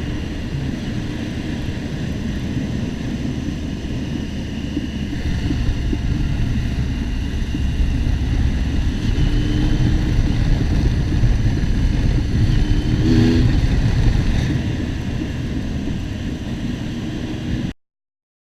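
Motorcycle engine and wind noise while riding, getting louder in the middle as the bike speeds up, then cutting off abruptly near the end.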